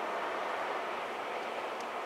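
Steady rushing noise of a train passing on the line.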